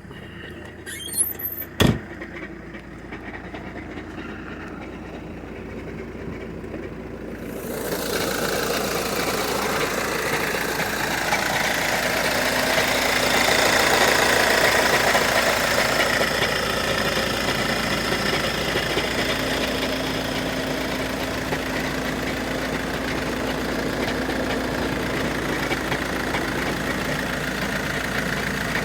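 A sharp clack about two seconds in, then the 2013 VW Jetta TDI's 2.0-litre four-cylinder diesel starting cold about seven seconds later. It runs louder for several seconds before settling to a steady idle.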